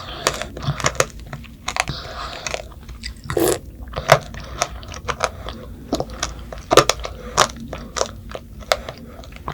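Strawberry tanghulu being bitten and chewed close up: the hard candied-sugar shell cracks in many sharp, irregular crunches.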